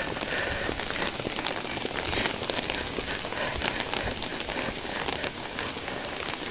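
Steady heavy rain falling, a dense even hiss dotted with many small irregular drop impacts.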